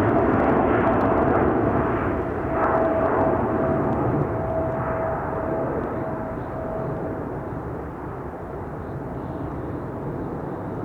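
Jet airliner's engines going by: a steady rush with a thin whine over it, growing gradually fainter as the aircraft moves away.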